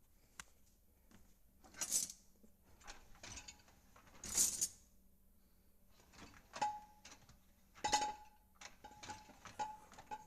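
Dishes and cutlery clinking and clattering in a dishwasher rack: scattered light clicks, two louder clatters in the first half, then several ringing clinks of crockery toward the end.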